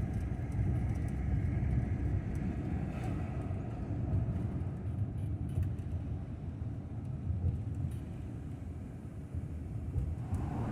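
Ford Transit camper van driving along a road: a steady low rumble of engine and tyre noise.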